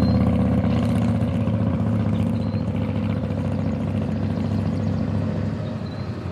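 Harley-Davidson Super Glide's V-twin engine idling steadily close by, slowly easing off a little in loudness.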